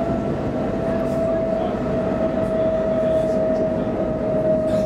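Stockholm commuter rail X10 electric multiple unit running, heard from inside the carriage: a steady rumble of wheels on track with a clear whine that drifts slightly down in pitch.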